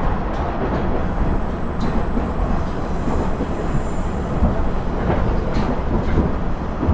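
Steady running noise heard inside a KiHa 110-series diesel railcar (KiHa 112) under way: a dense rumble of the diesel engine and the wheels on the rails, with a few faint clicks. A faint thin high whine sounds for a few seconds from about a second in.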